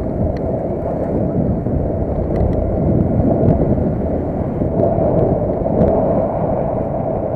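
Car on the move: a steady low rumble of engine and road noise, with a few faint light clicks.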